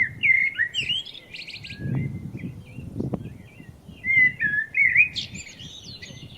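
A songbird singing two quick phrases of varied chirping and warbling notes, the second starting about four seconds in, over a low rumbling noise.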